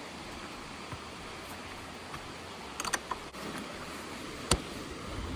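Steady outdoor background noise with a few sharp clicks and taps; the loudest click comes about four and a half seconds in.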